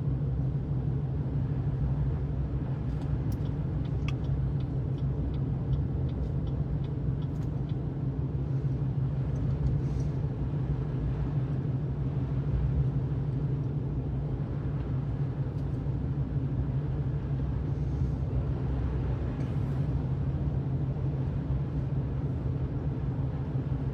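Steady road noise heard from inside a car cabin while driving on a snow-covered road: a continuous low drone from the engine and tyres, with a few faint clicks.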